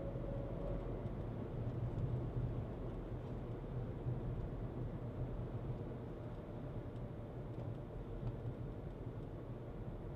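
Skoda Kushaq under way: a steady low rumble of engine and road noise, easing slightly in loudness about halfway through.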